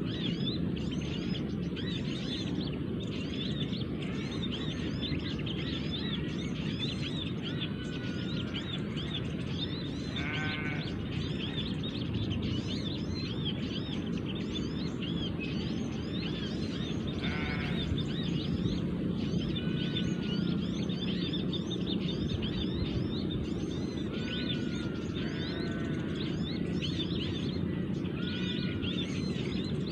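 Many small birds chirping and chattering densely and without pause, the agitated small-bird chorus used as a lure call for trapping, with a few longer rattling trills standing out now and then. Beneath it runs a steady low rush.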